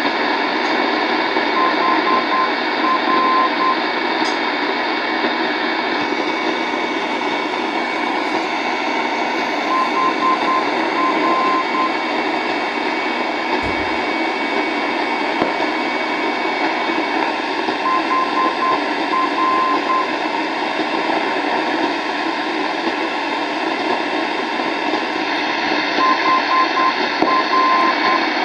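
Radio receiver hissing with static. A short group of high beeps repeats about every eight seconds, and a thin steady whistle stops about halfway through.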